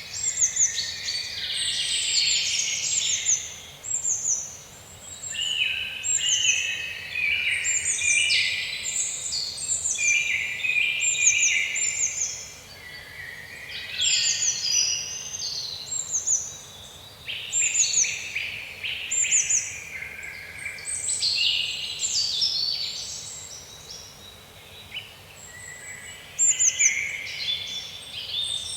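Several songbirds singing and chirping together in woodland, short repeated whistles and trills overlapping throughout, over a faint steady background.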